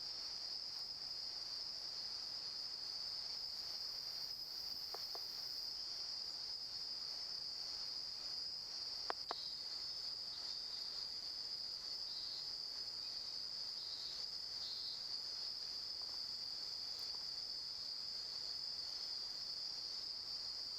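Continuous high-pitched chorus of night insects in the rainforest, with a couple of faint clicks near the middle.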